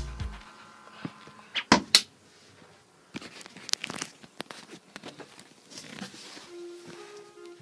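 Handling noises from lockers and stowed things being opened and shifted: two sharp knocks about two seconds in, then scattered light clicks and rustling. Music comes back in faintly near the end.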